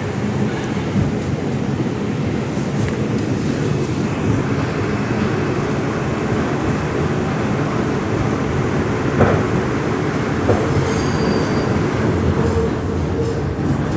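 Inside an R142 subway car in motion: steady rumble and rattle of the wheels on the rails, with a thin high whine that stops near the end and a couple of knocks about nine and ten seconds in.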